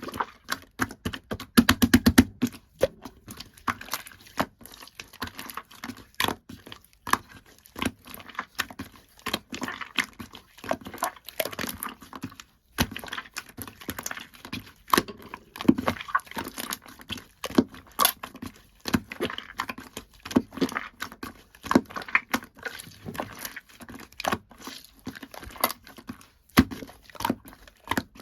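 Two-layer slime being squished and pressed by hand: an irregular run of sticky pops, clicks and crackles, with a fast train of pops about two seconds in.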